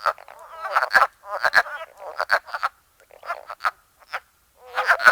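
Frogs calling: a run of short, repeated croaking calls, each lasting about half a second to a second, with brief pauses between them.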